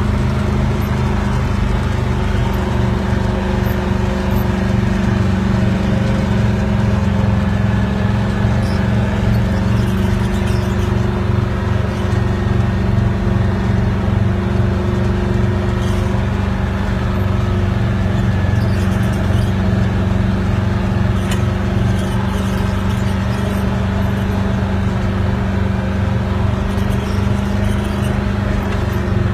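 Dump truck engine running steadily at an even pitch.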